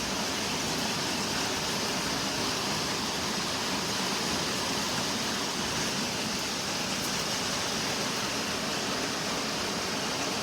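Heavy rain pouring down in a downpour, a steady, even hiss with no letup.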